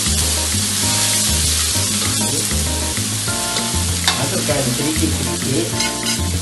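Blended chilli-and-spice paste frying and sizzling in hot oil in an aluminium wok, stirred with a slotted metal spatula that scrapes the pan about four seconds in and again near the end.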